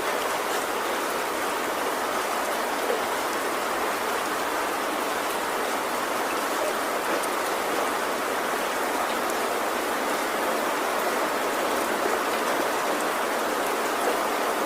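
Heavy rain falling steadily on a tin roof, a dense even hiss with scattered individual drop ticks and no thunder.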